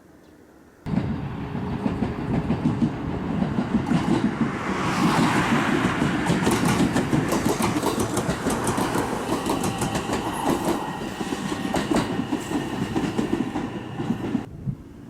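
A JR Kabe Line train running on the track, with its wheels clicking rapidly over the rail joints. The sound starts abruptly about a second in and cuts off just before the end.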